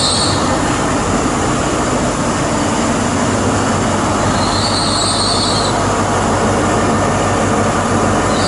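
A train running over the rails with a loud, steady rumble, its wheels squealing briefly at the very start and again about four and a half seconds in.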